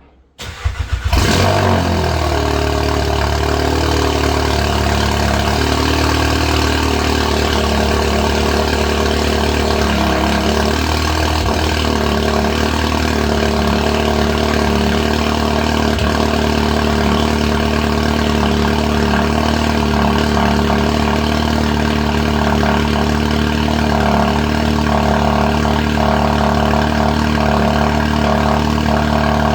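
Seat Leon Cupra 5F's 2.0 TSI turbocharged four-cylinder starting through a straight-through exhaust with downpipe and 200-cell sports catalytic converter. It catches with a loud flare about a second in, then settles to a steady idle.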